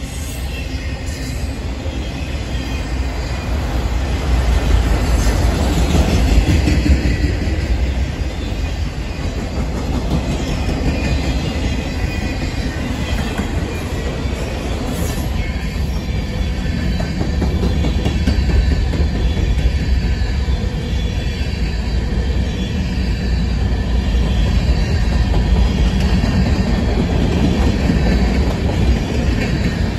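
Freight cars rolling past on steel wheels: a steady rumble and clatter of wheels on the rails, with no pauses.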